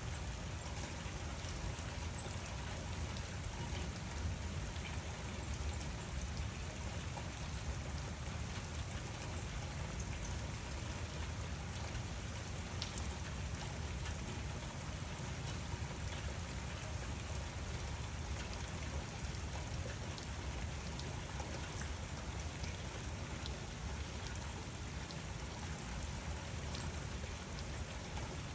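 Steady rain falling, with scattered ticks of individual drops over a deeper continuous wash.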